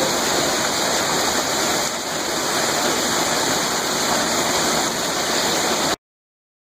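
Hailstorm: heavy hail and rain falling in a steady, loud, even rush. It cuts off suddenly about six seconds in.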